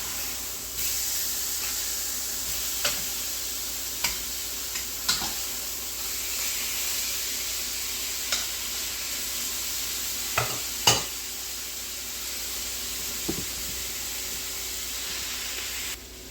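Chicken thighs searing in olive oil in a skillet, a steady sizzle with scattered sharp pops and crackles, the loudest about 11 seconds in. The sizzle drops off sharply near the end.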